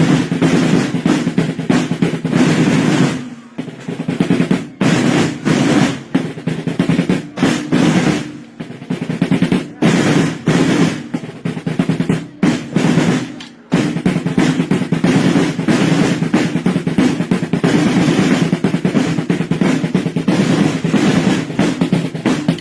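Sartiglia side drums playing a long drum roll, breaking into short rhythmic bursts of strokes for about ten seconds before rolling continuously again.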